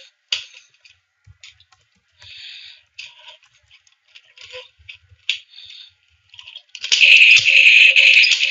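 Light clicks and handling noises, then about seven seconds in a loud, sustained electronic gun sound effect from a toy gun's small speaker.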